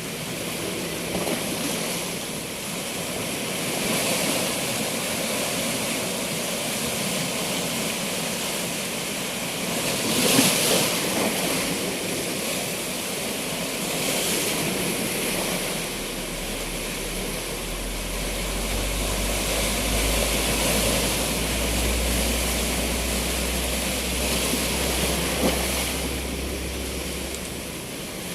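Sea waves washing in, in slow repeated surges, the loudest about ten seconds in. A low steady rumble joins about sixteen seconds in and stops near the end.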